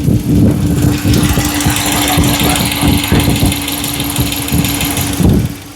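5.7 Hemi V8 idling warm, heard close up by a microphone at the driver's-side front, with a rapid ticking running through it: a tick that has been there since the engine was rebuilt, which the mechanic takes for valve-train related. The sound drops away right at the end.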